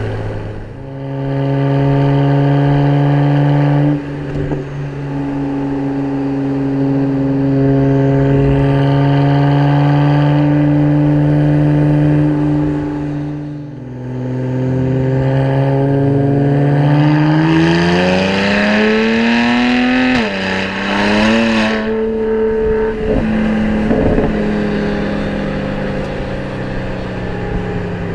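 BMW 335is's twin-turbo straight-six pulling at a steady cruise. Its note drops at a gear change about halfway through, then rises steadily under acceleration to a second shift, with a brief rush of hiss at the top, and settles into a steady cruise again.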